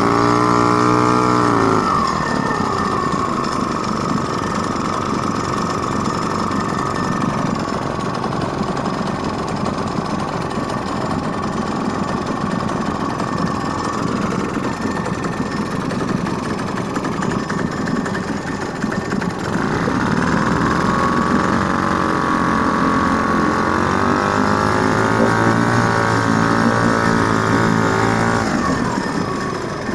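LMM-6 boat engine running: its speed drops in the first couple of seconds and it idles steadily, then it is sped up about two-thirds of the way through, wavers, and slows again near the end.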